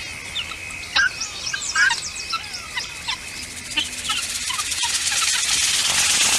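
Small birds chirping: scattered short chirps and quick sweeping calls over a steady high tone in the first half, with a hiss of noise building in the second half.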